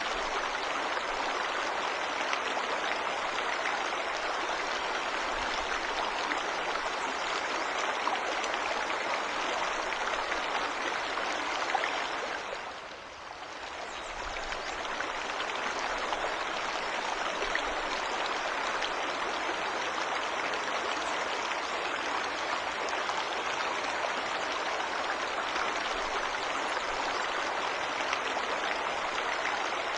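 Waterfall and stream water rushing in a steady, even wash. It dips in level briefly about halfway through, then comes back as before.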